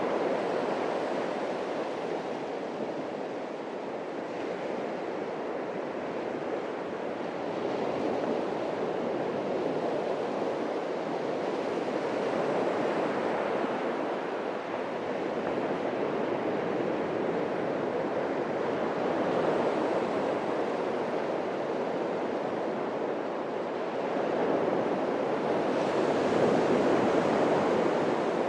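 Atlantic surf washing onto the beach: a continuous rushing wash that swells and eases as each set of waves breaks, with a fuller surge about 26 seconds in.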